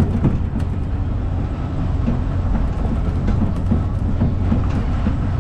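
A train running with a steady low rumble from its wheels on the rails and faint scattered clicks.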